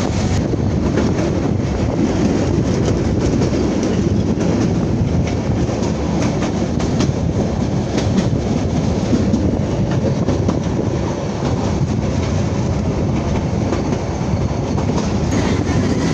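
Passenger train running along the line: steady running noise of the coach with the clickety-clack of wheels over the rails and scattered light clicks.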